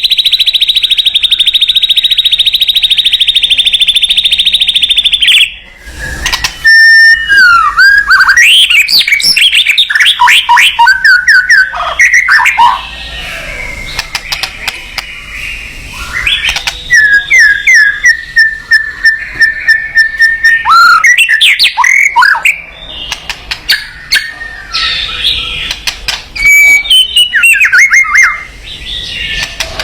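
Songbird singing loudly close to the microphone. It opens with a fast, buzzy trill for about five seconds, then moves into a varied run of whistled notes with rising and falling glides, quick descending phrases and a held whistle in the middle.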